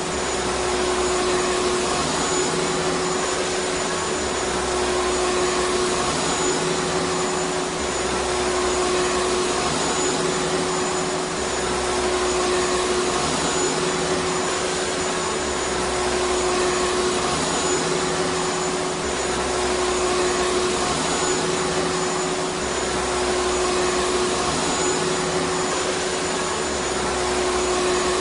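Vacuum cleaner running continuously: a steady whooshing motor hum with one constant tone held through it, and a low rumble that swells and fades every few seconds.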